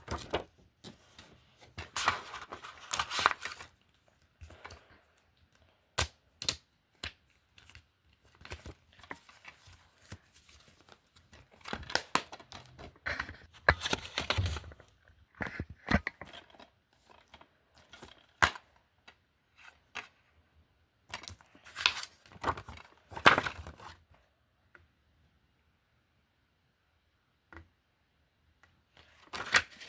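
DVD and Blu-ray cases being handled: irregular plastic clicks and knocks with bursts of crinkling rustle, then a few seconds of quiet near the end.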